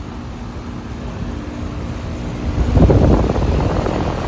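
Outdoor unit of a brand-new Payne 2.5-ton heat pump running iced over, a steady hum with a faint held tone, its accumulator frozen into a block of ice. About three seconds in, wind buffets the microphone with a louder rushing noise.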